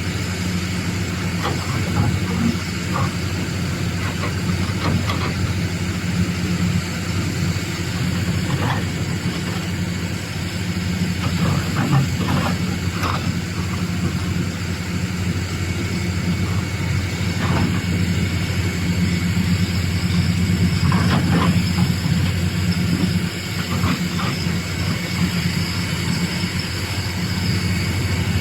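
Doosan DX390 hydraulic excavator's diesel engine running steadily at work, with short knocks and clanks now and then, some of them in quick clusters.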